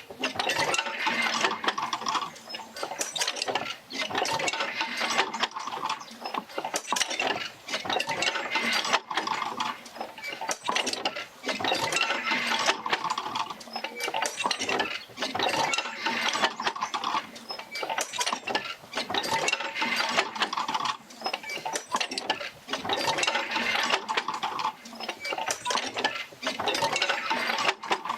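Oil-field field wheel working back and forth, driven by jerker lines from a Fitzgerald rig: a steady mechanical clattering of clicks and rattles that swells and fades in a regular cycle of about four seconds.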